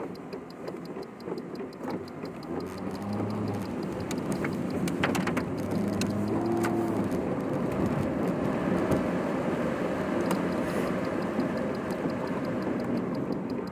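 Car cabin noise while driving: engine and road noise that builds as the car picks up speed a few seconds in, with a quick ticking near the start and again near the end.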